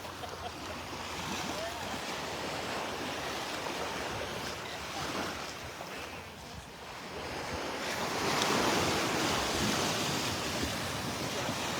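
Gulf of Mexico surf washing onto the beach, with wind on the microphone; the wash swells louder about eight seconds in.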